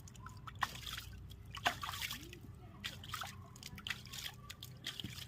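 Water splashing and dripping in irregular bursts as a cow is washed down.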